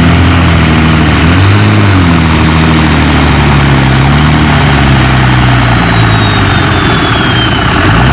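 Oliver 1800 tractor engine under heavy load pulling a weight-transfer sled, its note wavering and slowly sagging as it lugs down in too high a gear, with a thin high whine that falls steadily in pitch.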